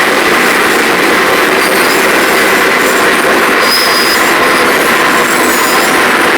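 Wirtgen W210 cold milling machine working: a loud, steady grinding din with faint brief high squeals scattered through it.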